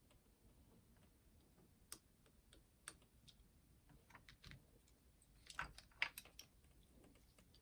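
Faint, scattered clicks and light taps of hands and a small tool on a boombox's plastic cassette mechanism, with a quick cluster of clicks near the end.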